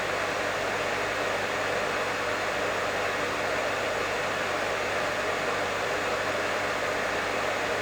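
Professional hair dryer running steadily: an even, unchanging rush of air with a faint low hum underneath.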